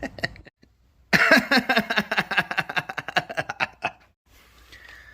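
A rapid run of mechanical clicks, about a dozen a second. It starts abruptly about a second in and lasts about three seconds.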